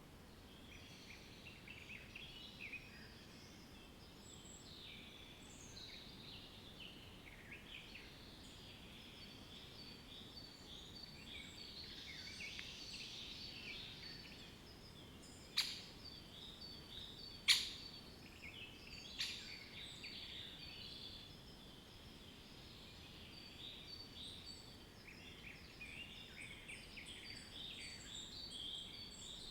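Faint chorus of many small birds chirping and twittering over a low steady background hiss. Three sharp clicks about two seconds apart, a little past the middle, are the loudest sounds.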